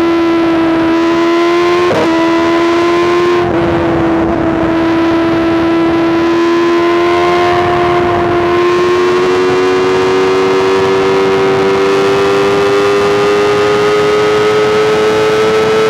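2024 BMW S1000RR's inline-four engine running at high revs through a full Arrow exhaust system. Its pitch climbs slowly as the bike accelerates, with two brief breaks in the tone about two and three and a half seconds in.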